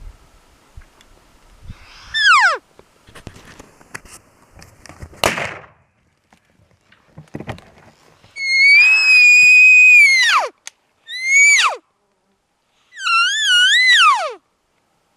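Cow elk mews blown on an Elk Reel call: four calls that each drop steeply in pitch. The longest is held steady for about two seconds before falling, and one wavers up and down, in the style of estrous cow mews. Rustling and a sharp knock come in the first half.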